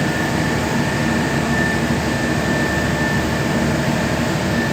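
Carrier 30GTN air-cooled chiller running, its 06E semi-hermetic reciprocating compressors and condenser fans making a steady, loud machine noise with a constant high whine.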